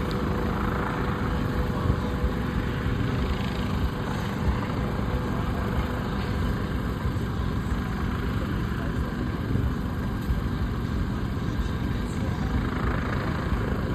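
Steady low engine rumble, with no breaks or rises in pitch.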